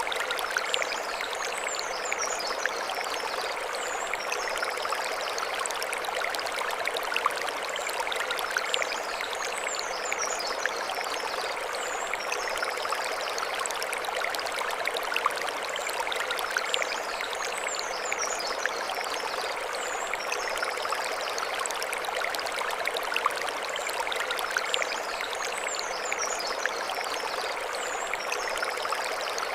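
Mountain stream flowing over stones: a steady rushing and splashing of water. A short high chirping phrase recurs about every eight seconds.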